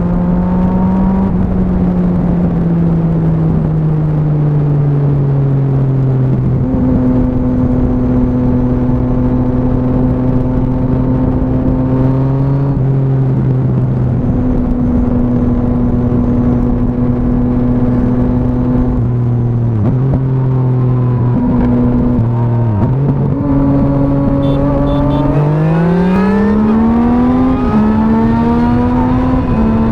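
Sport motorcycle engine with an aftermarket exhaust, ridden on the road: its pitch falls as it slows over the first few seconds, holds steady at cruise with a few brief drops, then rises sharply under acceleration near the end, with a gear change partway through the pull.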